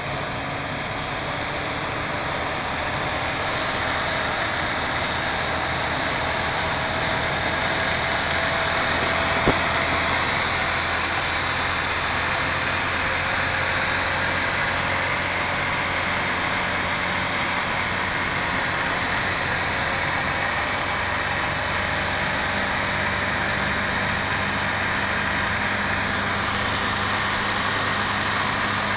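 Honda CBR600F4 inline-four motorcycle engine running steadily, with a single sharp click about nine and a half seconds in.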